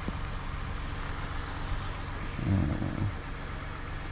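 A car engine idling steadily, a low even hum, with a brief voice about two and a half seconds in.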